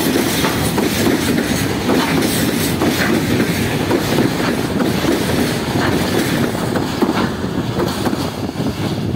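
Freight train wagons rolling past close by: a steady rumble of steel wheels on rail with irregular clacks as wheelsets cross rail joints, getting a little quieter near the end as the tail of the train nears.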